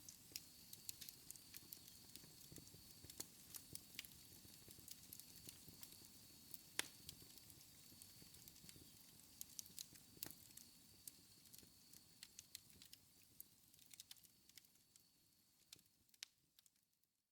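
Wood fire in a fireplace crackling: irregular sharp pops and snaps over a soft hiss, with a faint high whine that fades out about twelve seconds in. The sound dies away to silence just at the end.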